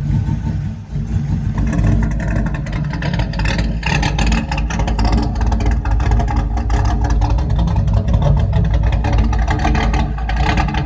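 A vehicle engine running steadily with a heavy low rumble, rising in roughness about two seconds in.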